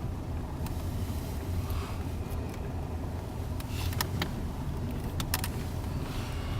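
Car driving slowly, heard from inside the cabin: a steady low engine and road rumble, with a few short sharp clicks about four and five seconds in.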